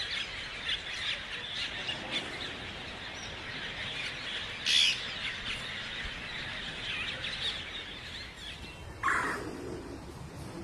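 Many small birds chirping together in a dense, continuous chorus. One louder call comes about five seconds in, and another lower call about nine seconds in.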